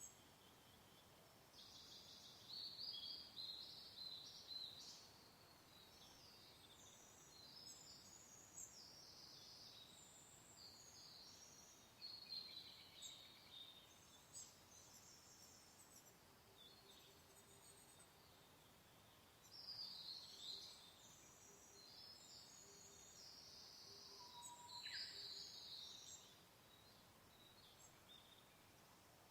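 Faint birdsong: several bouts of high chirps and trills with short pauses between them, over a soft steady hiss of wind.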